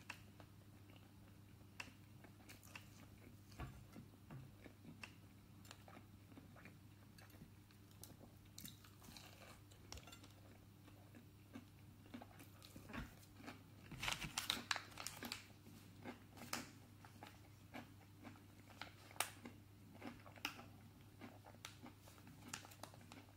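Faint chewing and crunching of a crumb-coated M&S mini fish cake, close to the mouth, with a louder run of crunchy bites a little past halfway, over a steady low hum.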